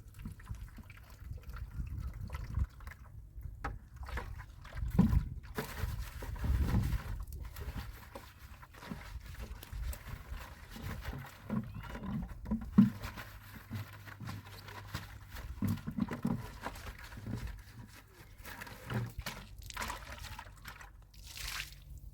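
Water pouring and trickling, with irregular knocks and clatter of handling.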